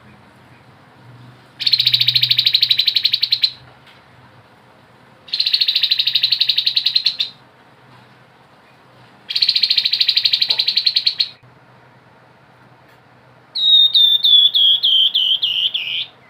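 Grey-headed babbler singing: three loud, rapid rattling trills of about two seconds each, then a run of quick notes that step down in pitch near the end.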